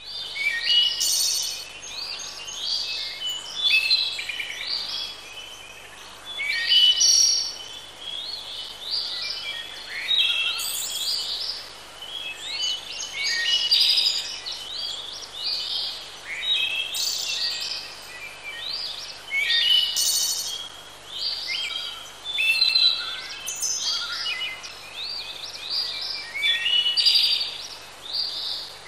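Several birds singing, a busy chorus of quick chirps and rising whistled notes that comes in bursts every two to three seconds over a faint outdoor hiss.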